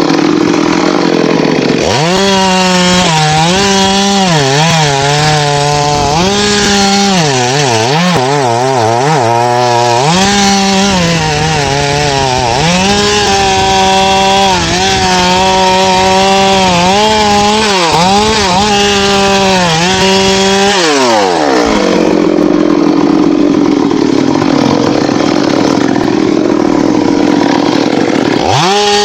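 Chainsaw cutting teak wood, its engine at high revs with the pitch dipping and recovering again and again as the chain bites into the cut. About three quarters through the revs fall off to a rough idle for several seconds, then rise again sharply near the end.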